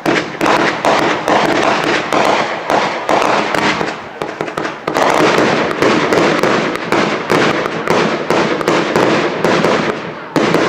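Fireworks going off in a dense, loud barrage: many bangs a second, one on top of another, with a brief thinning about four seconds in before it picks up again.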